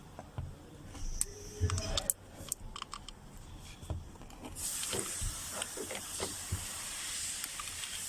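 Light clicks and knocks of metal parts being handled, then a steady high hiss that starts a little past halfway through and keeps going.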